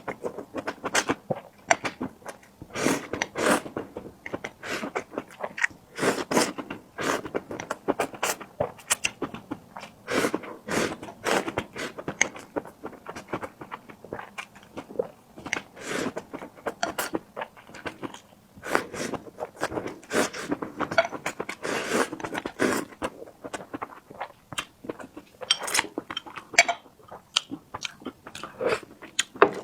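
A person eating close to the microphone: chewing and biting food, a dense, irregular run of short sharp mouth and food sounds.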